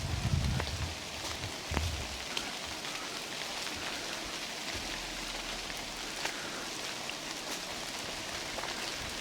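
Steady rain falling through a forest, with many separate drips ticking on leaves and the ground. A low rumble sounds in the first two seconds, then drops away.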